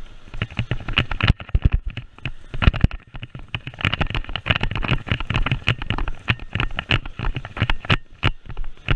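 Airsoft electric guns firing in fast bursts of sharp clicks. There is a short burst about a second in and a longer, denser stretch of rapid fire through the middle.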